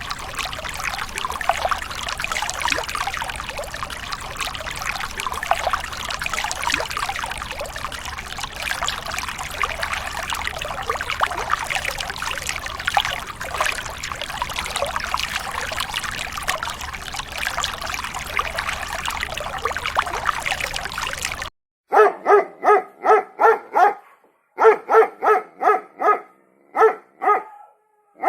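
A steady, water-like rushing and trickling noise that cuts off abruptly, followed by a dog barking in quick runs of clipped, evenly spaced barks near the end.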